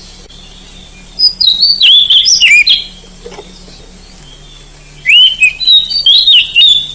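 Oriental magpie-robin (kacer) singing: two bursts of varied, sweeping whistled phrases, the first about a second in and the second about five seconds in.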